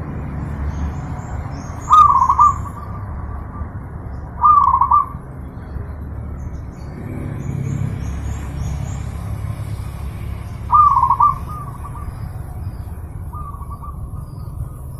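Zebra dove (perkutut) cooing: short trilled coos about 2, 4.5 and 11 seconds in, and a fainter one near the end. Faint high chirps and a steady low rumble run underneath.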